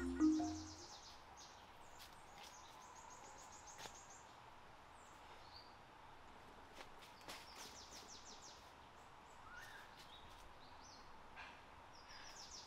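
Birds singing in a forest: several phrases of high, rapid trills come and go over a faint steady hiss, with scattered light clicks.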